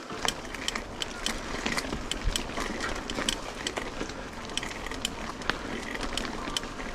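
Bicycle moving over a rough trail: irregular sharp clicks and rattles over a steady hiss.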